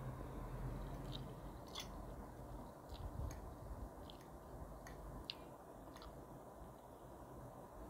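A person chewing a mouthful of spaghetti close to the microphone, with scattered small wet mouth clicks.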